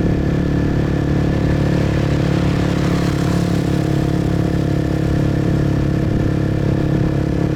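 Motorbike engine running at a steady speed, heard from the rider's position, with an even rush of wind and road noise over it.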